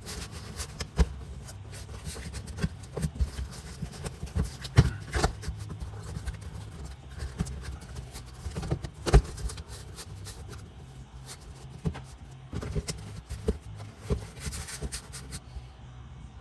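Cardboard being handled, bent and pressed into place to make a floor-pan patch template: irregular rustling, scraping and small knocks, some sharper than others, over a low hum.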